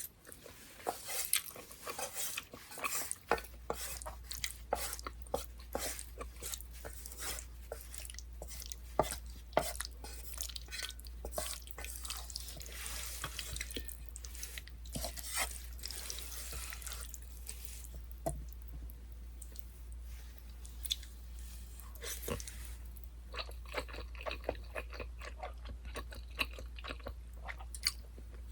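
Close-miked wet eating sounds: chewing sauced stir-fried noodles, with many small sticky, irregular mouth clicks and wet smacks.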